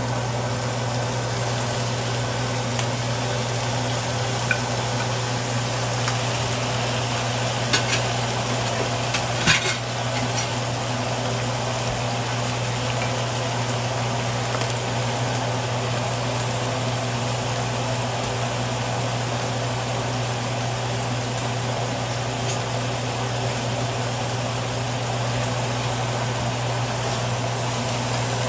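Chunks of eel and onion sizzling in hot oil in a skillet, with a couple of sharp knocks of the wooden spatula about eight and ten seconds in. A steady low hum runs underneath.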